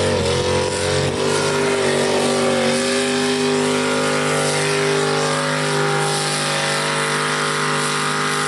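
Super mini pulling tractor's V8 engine running hard at high revs under load, with small dips in pitch in the first few seconds, then held steady.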